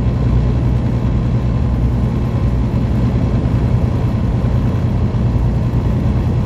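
Semi truck's diesel engine running steadily at cruising speed, a low even drone with road and tyre noise, heard from inside the cab.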